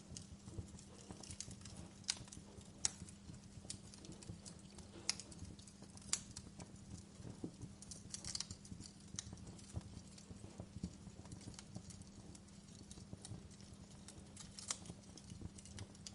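Wood fire crackling, with irregular small clicks and a few louder snaps scattered through, over a steady low hum.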